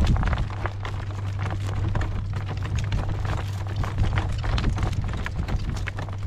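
A horse's hooves clip-clopping at a walk, over the steady low hum of a loud running motor.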